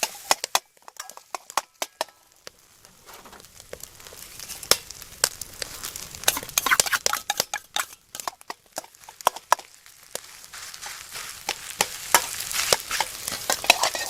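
Food stir-frying in a Chinese wok over a campfire: a metal spatula or ladle clacks and scrapes against the wok in quick irregular knocks over a sizzle that grows louder toward the end.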